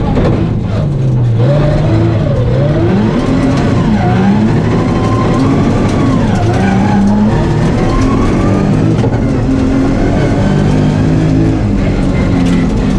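Nissan 350Z rally car's 3.5-litre V6 heard from inside the cabin, driven hard in low gears, its revs rising and falling over and over with acceleration, braking and gear changes.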